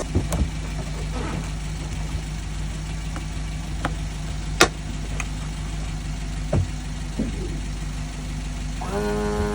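Honda BF100 four-stroke outboard motor idling steadily, with several sharp clicks and knocks over it, the loudest about halfway through. Music comes in near the end.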